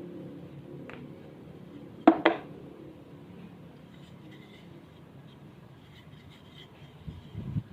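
Quiet room tone with a few light knocks: a single click about a second in, then two sharper knocks in quick succession about two seconds in.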